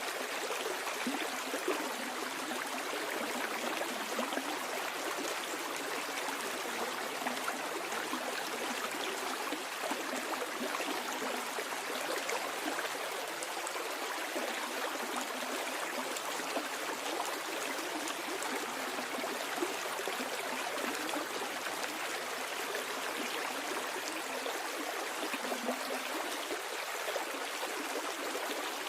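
Creek water flowing steadily over rocks, a constant rushing with fine trickling and gurgling detail.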